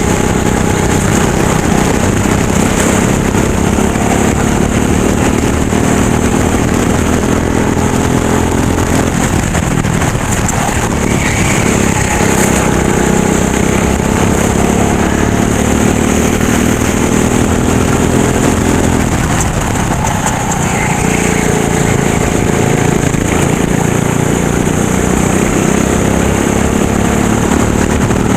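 Racing go-kart engine running hard, its pitch rising and falling as it revs up and drops back, with two deeper drops about ten and twenty seconds in.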